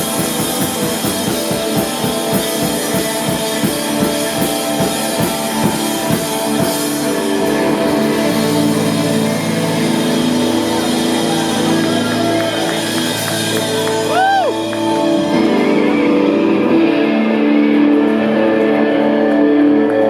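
Live rock band playing: drums and electric guitar, with the drum beat dropping out about seven seconds in, leaving held guitar chords ringing on, with a brief sliding note about fourteen seconds in.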